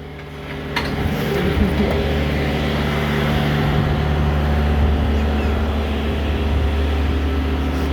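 Commercial truck's engine idling steadily, a low even hum, with one sharp click about a second in.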